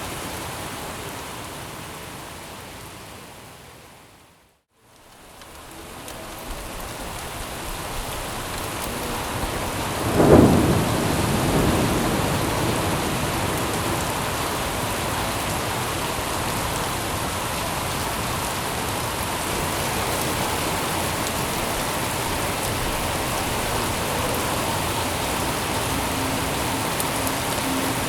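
Steady heavy rain, a dense even hiss. It fades out to a moment of silence about four seconds in, then fades back up. About ten seconds in there is a single loud clap of thunder with a low rumble, the loudest sound, and the rain carries on steadily after it.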